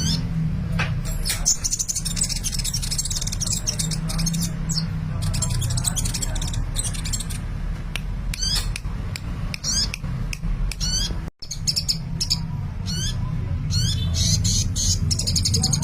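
Sunbird singing actively: bursts of rapid, high-pitched chirps and trills, with a steady low hum underneath.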